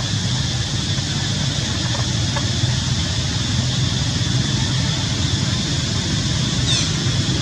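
Steady outdoor background rumble and hiss, with a brief high, falling chirp near the end.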